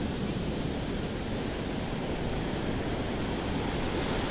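Sea surf washing on the beach: a steady, even rush of waves.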